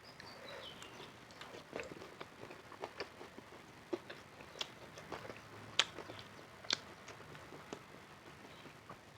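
Close-miked eating sounds: a person chewing, with irregular sharp crunchy clicks, the loudest about six seconds in.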